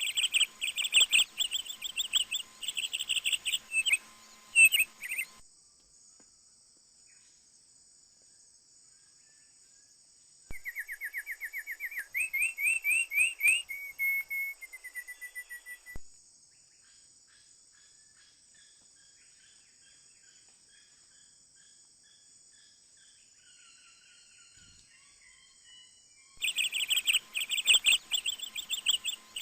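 Birds calling in fast trills of repeated high chirps, over a steady high-pitched drone. The calls come in separate stretches that start and stop abruptly: at the start, again from about ten to sixteen seconds in with faint scattered calls after, and again near the end.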